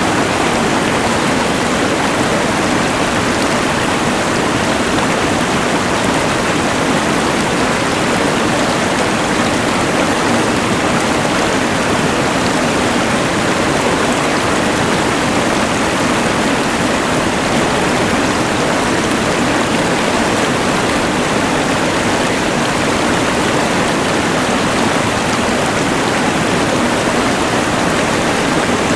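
Steady rush of a mountain river blended with the even hiss of a LectroFan white noise machine, unchanging throughout.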